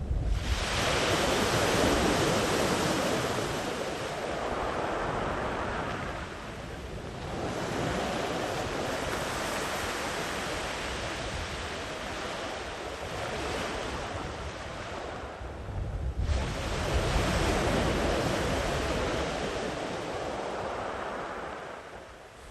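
Sea waves breaking and washing up a sandy beach, three surges: one right at the start, another about seven seconds in and another about sixteen seconds in, each fading slowly as the water spreads up the shore.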